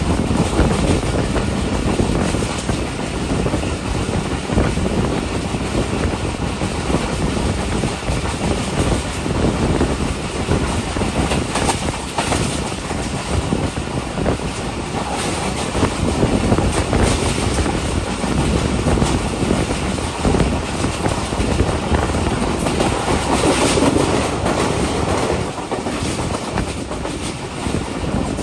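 Passenger train coach running along the track, heard at an open window: a steady rumble of wheels on rail with irregular clacks and knocks from the running gear.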